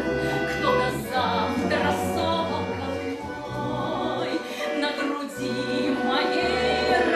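A woman singing a Russian song in a trained folk-concert voice, with instrumental accompaniment holding low sustained notes beneath the melody.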